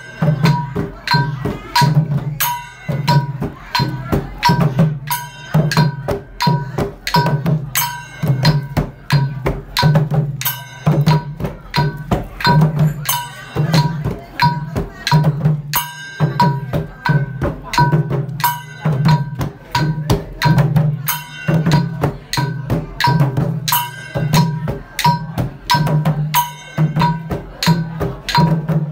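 Khmer chhay-dam percussion music: drums beaten in a steady, fast rhythm, with short ringing metallic strokes on the beats.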